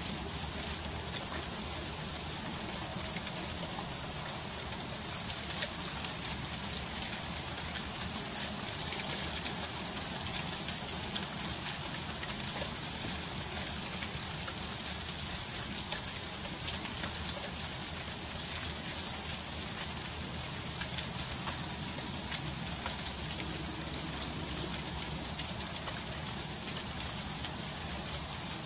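Freezing rain falling steadily, a dense patter of fine ticking drops over a high hiss, with a few slightly louder ticks.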